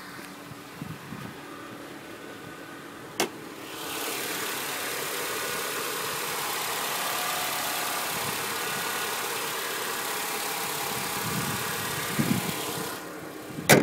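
Inside the cabin of a 2007 Honda Accord with the engine idling, a click about three seconds in is followed by a loud, steady hiss of rushing noise. The hiss ends near the end with another sharp click.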